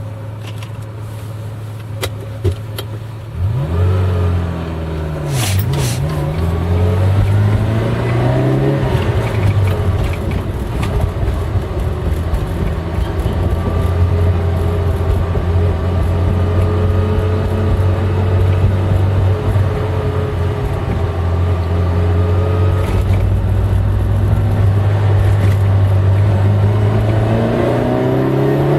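V8 car engine under way. Its note dips and climbs again a few seconds in, then holds as a steady drone, pulling slowly higher in fifth gear, with another change in pitch near the end.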